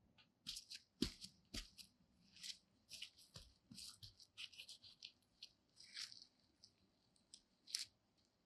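Irregular crisp rustling and crackling, with two soft knocks about a second in; the crackles thin out after about six seconds.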